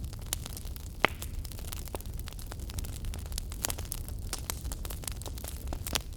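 Wood fire crackling in a fireplace: many sharp snaps and pops over a low steady rumble, with one louder pop about a second in.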